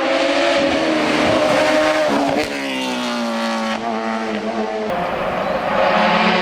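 Hill-climb race car engine at high revs. Its pitch falls about two and a half seconds in as the car goes by, then an engine runs on steadily and grows louder near the end.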